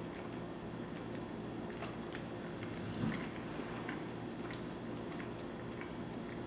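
Close-up mouth sounds of someone eating cheesy spaghetti casserole: a forkful of noodles sucked in, then chewing with small wet clicks and smacks, and a slightly louder bite or squelch about three seconds in. A fork digs into a glass baking dish near the end. A steady low hum runs underneath.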